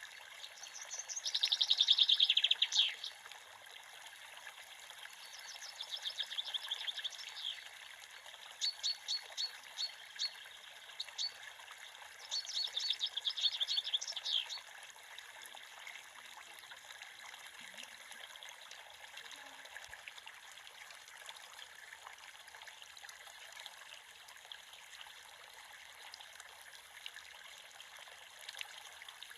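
Creek water running steadily, with a small songbird singing four phrases of rapid repeated notes in the first half, the first and loudest about a second in; after that only the running water.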